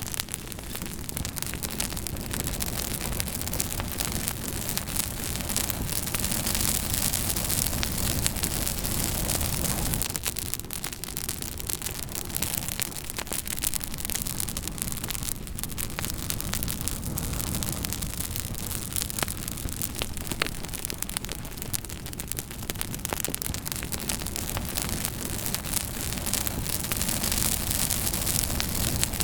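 Campfire burning, the wood crackling with many small sharp pops over a steady rushing hiss.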